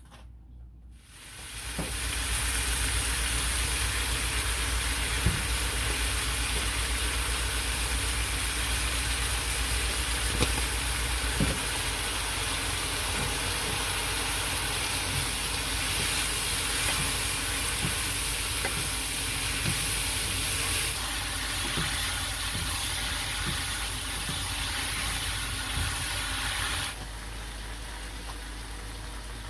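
Food sizzling as it fries in a pan, a steady hiss with occasional small clicks of a utensil stirring, starting about a second and a half in and cutting off near the end.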